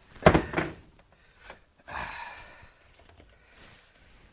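A quick cluster of hard knocks and thuds in the first second, followed about two seconds in by a short rasping scrape.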